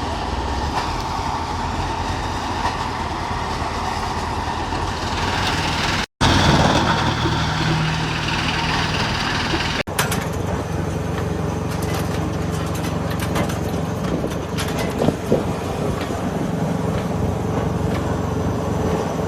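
Disc wood chipper running with a steady loud mechanical noise. The sound breaks off abruptly about six seconds in and again near ten seconds, and after the second break sharp clicks and knocks come thick and fast over the running machine.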